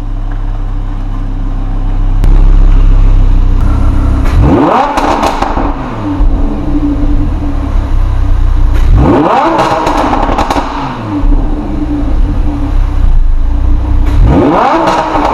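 Lamborghini Huracán's V10 engine idling, then revved hard three times, about every five seconds; each rev climbs quickly in pitch and falls back to idle.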